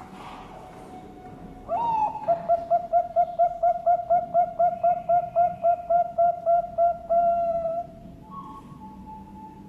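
Zebra dove (Bangkok perkutut) singing: a rising opening coo, then a fast, even string of about twenty short coos at roughly four a second, ending on a longer held note.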